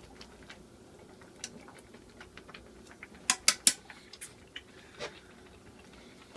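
A utensil clicking and tapping against a bowl as noodles are loosened in the soup so they don't stick. Scattered light taps, with three sharper clicks in quick succession about three seconds in.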